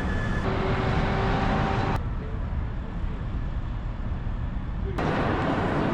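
Passenger train running: a steady low rumble with rail and car noise, in short clips cut together, the sound changing abruptly about half a second, two seconds and five seconds in.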